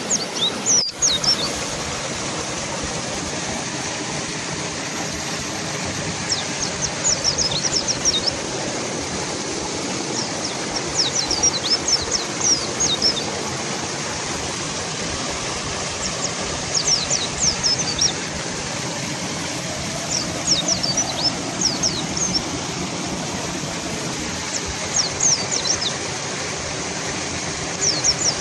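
River water rushing steadily, with a mountain white-eye singing short bursts of rapid, high, thin chirps that come back every four to five seconds.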